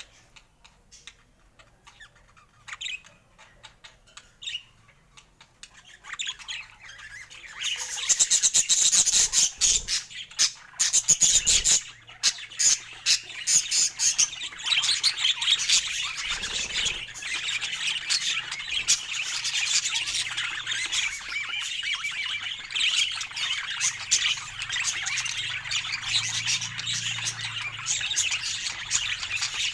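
Budgerigars chirping and chattering: scattered short calls at first, then a dense, continuous chatter from about eight seconds in.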